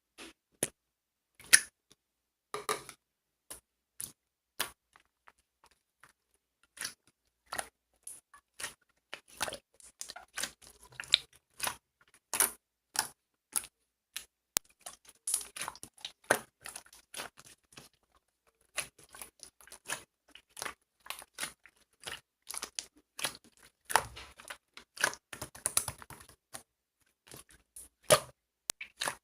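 Gold pearl slime being squeezed and pressed by hand, making irregular sharp clicks and pops as air bubbles burst in it.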